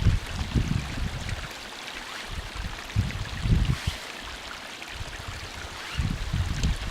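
A small stream running, with gusty low rumbling on the microphone near the start, in the middle and near the end.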